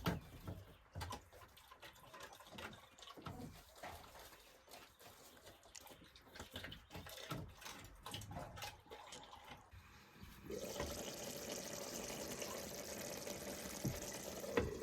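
Scattered drips and small clicks, then about ten seconds in a steady hiss of heavy rain sets in suddenly and keeps on.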